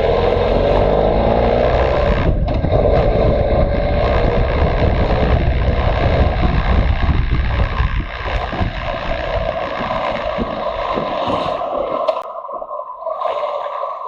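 Motorcycle engine running while riding, heard with rushing wind noise. The engine pitch glides in the first couple of seconds, the sound eases somewhat about eight seconds in, and the deep engine rumble largely drops away near the end as the bike slows or the throttle closes.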